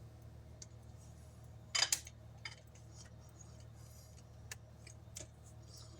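Scattered light clicks and taps of stamping supplies being handled on a craft desk, with a sharper double click about two seconds in, over a faint steady hum.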